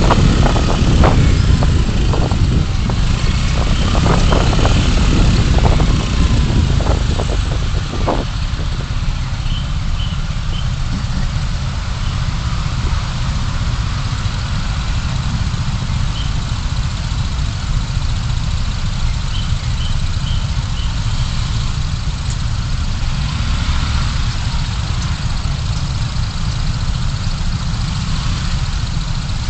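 Steady low engine and road rumble of a car driving in city traffic, picked up by a dashcam microphone, with a few scattered knocks or clicks in the first eight seconds.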